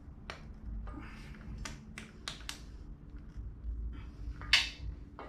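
A run of small sharp clicks and taps from hands handling parts and tools while fitting an ignition coil and its wiring to a motorcycle, with one louder short scrape near the end, over a steady low hum.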